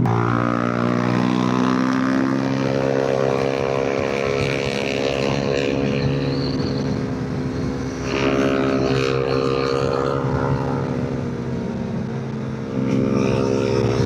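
Motorcycle engine running steadily under way, its pitch shifting as the throttle changes, and growing louder about eight seconds in and again near the end.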